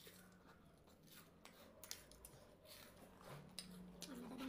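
Faint crunching of a crunchy snack being chewed: scattered sharp clicks over a low steady hum.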